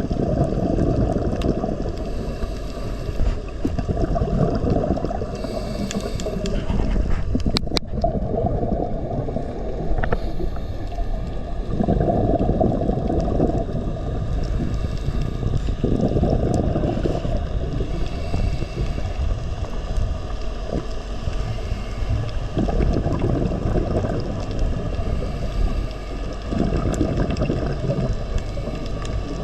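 Low, muffled rumble of water and wind noise at sea, swelling and easing every few seconds, with a few faint clicks about eight seconds in.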